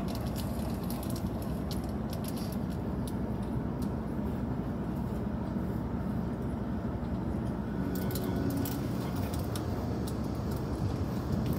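Steady low rumble of a Shinkansen bullet train's passenger cabin with the train in motion, with a few faint clicks about eight seconds in.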